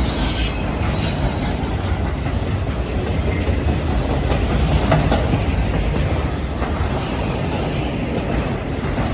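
A freight train rolling past, its wheels clattering over the rail joints in a steady loud rumble. There is a brief high-pitched wheel screech in the first second or so.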